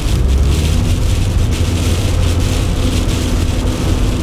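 Opel Kadett D (Astra Mk1) 1.6S automatic estate driving on a snow-covered road, heard from inside the car: the four-cylinder petrol engine running steadily as a low drone, with an even hiss of tyres on snow.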